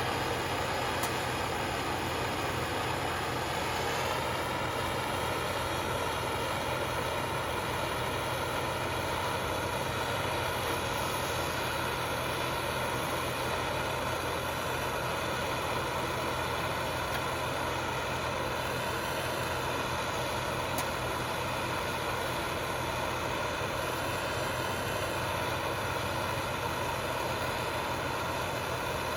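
A machine running with a steady, unchanging drone.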